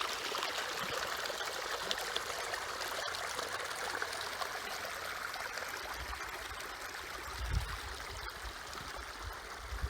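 Small stream running and trickling, a steady babble of water. Some low bumps of handling or wind on the microphone come in during the second half.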